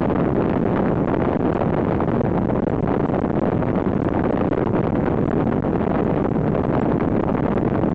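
Steady rumble and rush of an Intercity passenger train running at speed, heard from inside the carriage.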